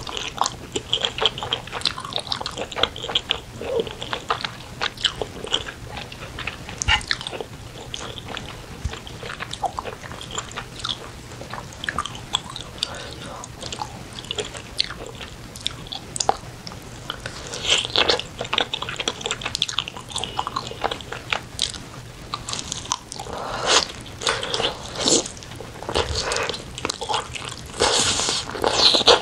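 Close-miked ASMR eating of spicy braised chicken: irregular wet chewing, biting and smacking mouth sounds, with a cluster of bites near the end.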